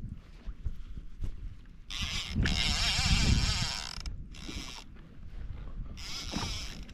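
A fishing reel whirring in several short bursts, the longest and loudest about two seconds in, with a heavier low rumble mixed into it.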